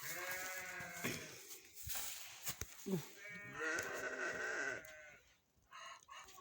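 Sheep bleating: two long wavering bleats, the second starting about three seconds in.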